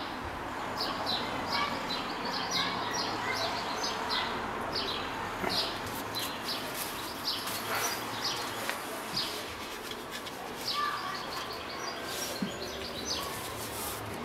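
Small birds chirping, with short high chirps coming one or two a second over a steady background hiss.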